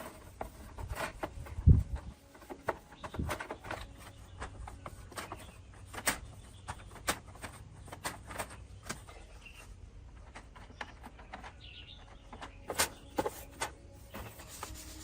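Irregular clicks, taps and knocks of tools and metal or plastic parts being handled while working on an old electric fan, with one heavier thump just under two seconds in. Faint bird chirps sit in the background.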